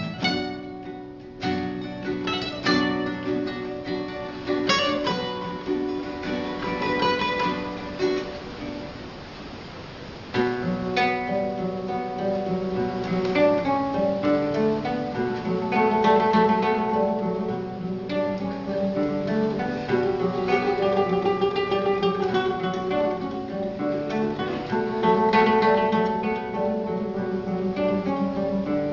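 Acoustic guitar instrumental music, plucked notes and chords; it thins out and drops in level, then comes back fuller and louder about ten seconds in.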